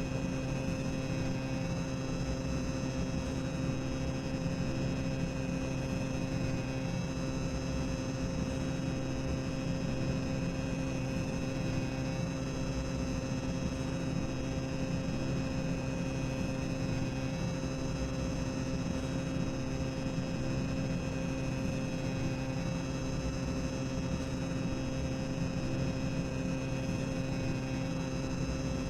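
Boiler room ambience sound effect: a steady low machinery rumble and hum with a few held tones, unchanging.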